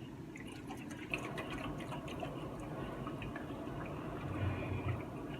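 Saline solution sloshing inside a neti pot as it is shaken to mix, with a run of light clicks for roughly the first two seconds.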